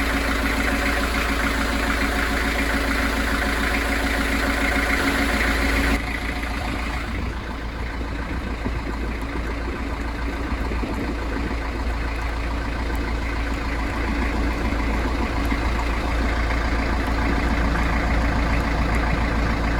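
A narrowboat's inboard diesel engine idling steadily. About six seconds in the sound becomes a little quieter and duller.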